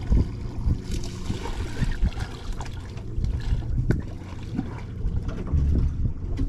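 Water trickling and dribbling on a small boat, with irregular low knocks and thumps and a sharp click just before four seconds in, as a freshly caught conger eel is handled.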